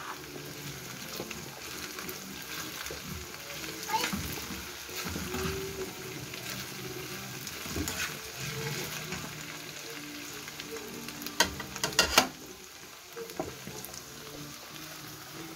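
Okra and sliced onions sizzling steadily as they fry in a pan, with a few sharp clicks of a utensil against the pan, the loudest pair about twelve seconds in.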